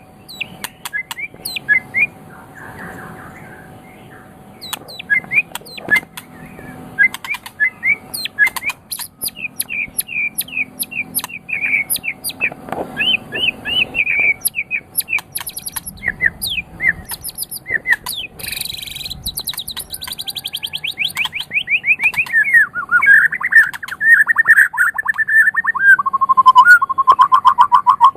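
White-rumped shama (murai batu) singing a fast, varied run of sharp chirps, clicks and whistled phrases. Rapid trills come in the second half, the last one dropping in pitch near the end.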